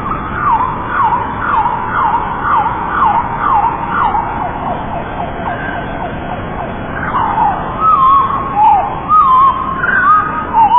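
Lovebirds chirping: a steady run of quick, downward-sliding chirps, about two a second. From about seven seconds in, louder warbling notes that rise and fall take over.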